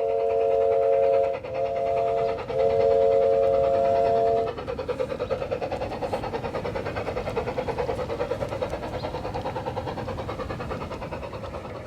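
Garden-scale model locomotive's onboard sound system sounding a three-note chime in three blasts, long, short and long, over the first four and a half seconds. After that the train runs on with a steady rhythmic beat of about five a second.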